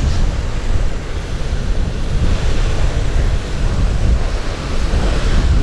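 Strong wind buffeting the microphone: a dense, steady low rumble with a rushing hiss over it.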